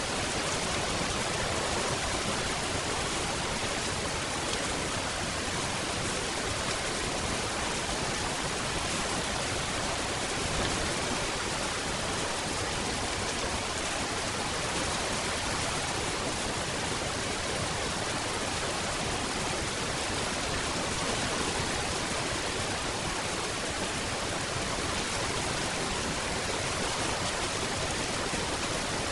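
Steady rain falling, an even hiss with no separate drops, thunder or changes in strength.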